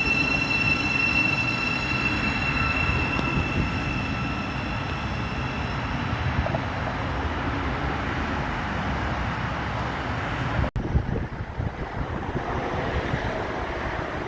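Passing train at a station platform: a steady rumble with a high, steady squeal from the train that fades away about six seconds in. The sound drops out for an instant about ten seconds in.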